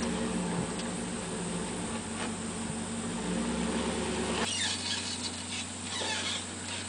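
A vehicle engine idling steadily just after starting. About four and a half seconds in, the sound changes abruptly to a different steady low hum with light clattering.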